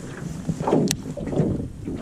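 Water splashing and sloshing in uneven surges, with one sharp click about a second in.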